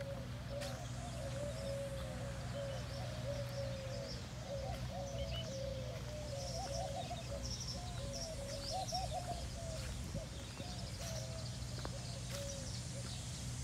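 Birds chirping and calling in the trees, a busy run of short notes that rise and fall, with higher thin chirps among them, over a steady low hum.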